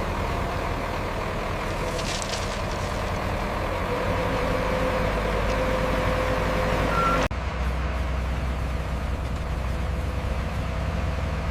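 Diesel engines of heavy construction machinery running steadily, with an abrupt change in the sound about seven seconds in.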